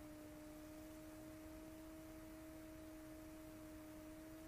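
Near silence with a faint steady hum of two tones, drifting slightly upward in pitch.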